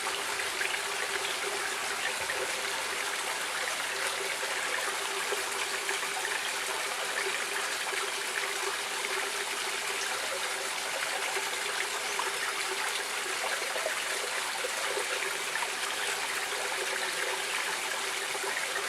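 Stream water running in a steady, even rush, dotted with many small trickles and splashes.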